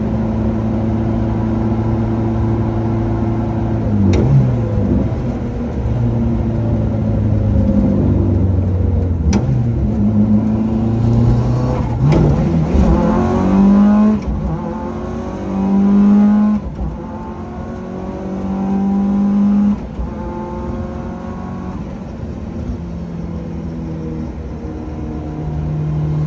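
Lancia Delta Integrale Group A rally car's turbocharged four-cylinder engine running, steady at first. Around the middle it accelerates through the gears, its pitch rising and then dropping back at each of several shifts. Two sharp clicks come early.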